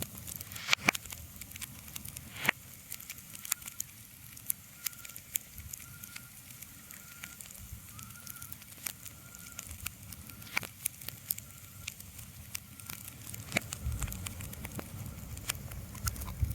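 Irregular sharp crackles and pops over a low rumble and soft hiss, like a small fire burning. A faint thin whistling tone comes and goes in the middle.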